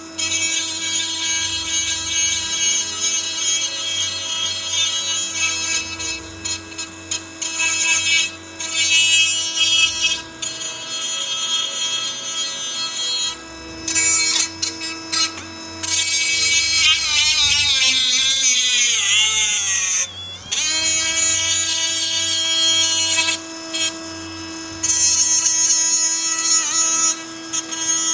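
Small angle grinder running with a steady whine, grinding the finish off the ends of a metal link bracket to prep it for welding, the grinding hiss coming and going as the disc is pressed on and lifted. About two-thirds of the way through it is switched off and winds down, then is started again and runs back up to speed.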